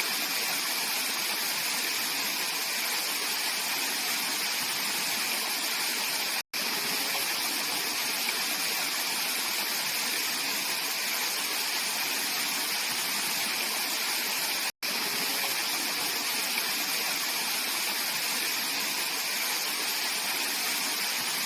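Clear mountain valley stream rushing steadily, an even hiss of flowing water. The sound cuts out for an instant twice.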